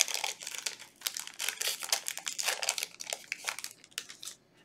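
Foil Yu-Gi-Oh booster pack wrapper crinkling in quick bursts as it is handled. It stops shortly before the end.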